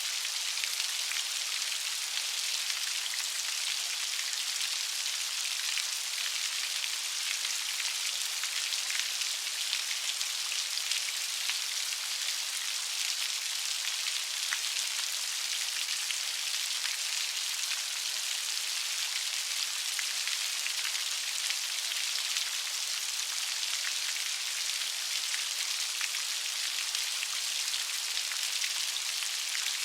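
Steady light rain falling, an even high hiss full of fine drop patter with no thunder.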